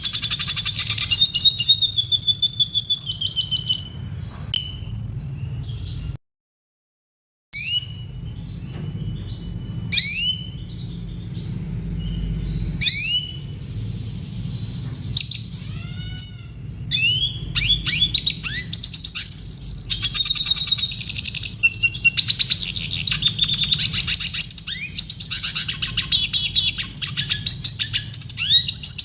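Red siskin singing: a long, varied, high-pitched song of rapid twittering trills and quick sweeping notes. The song cuts out to silence for about a second just after six seconds in, then resumes and grows denser toward the end.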